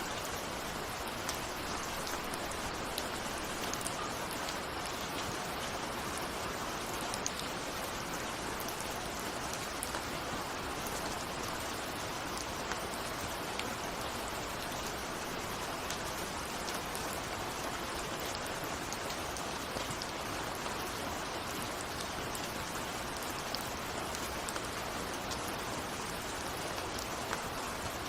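Steady rain falling, with scattered individual drops ticking against a window pane.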